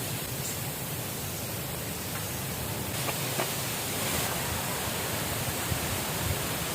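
Steady rushing of water, with a few faint clicks.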